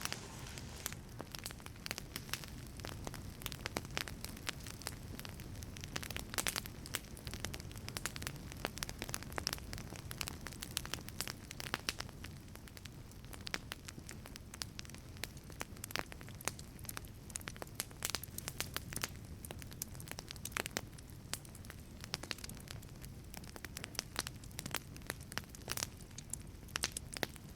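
Wood fire crackling in a wood-fired pizza oven: a steady low rush of flame under frequent, irregular sharp pops and snaps of burning wood.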